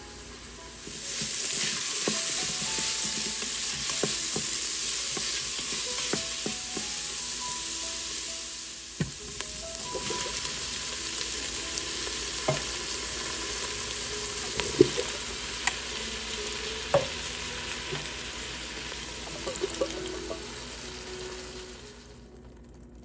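Onions and garlic sizzling in hot oil in an Instant Pot's stainless steel inner pot on sauté, with a spoon stirring and tapping against the pot now and then. The sizzle starts about a second in, eases for a moment a third of the way through, picks up again and fades out near the end.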